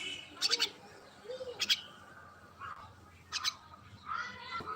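Common myna calling: a string of short, harsh notes repeated about once a second.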